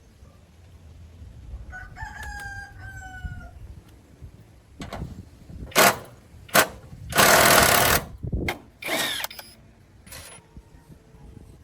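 A rooster crows once, about two seconds in. A few seconds later come four loud hissing blasts, the third one longest at about a second.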